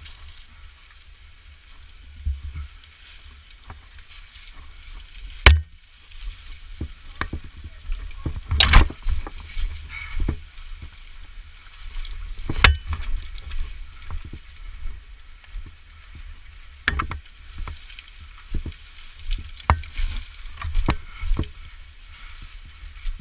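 Irregular knocks and clicks with a few metallic clinks, from climbing gear and equipment being handled, over a low rumble on the microphone. Three sharper knocks stand out, about five, nine and twelve seconds in.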